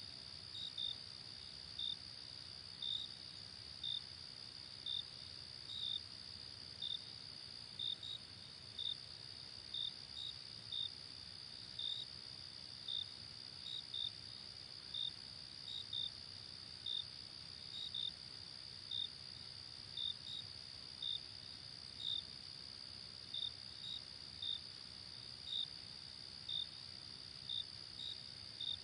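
Insects chirping: a steady high-pitched trill with a louder, short chirp repeating about once a second over faint background hiss.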